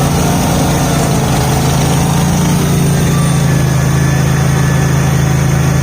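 Garden tractor engine idling steadily, a constant low hum with no change in speed.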